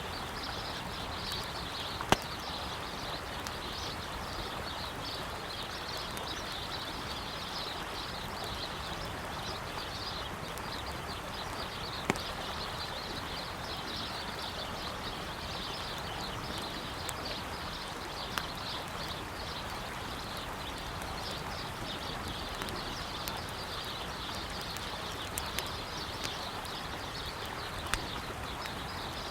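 River water running steadily under a crackling campfire, with sharp wood pops every few seconds, the loudest about two and twelve seconds in. Birds chirping continuously in the background.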